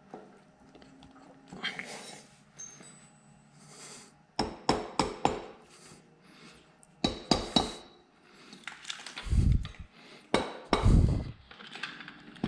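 Metal engine parts and tools clinking and knocking during a motorcycle engine teardown. There are clusters of sharp clinks about four and seven seconds in, and two dull thuds near the end.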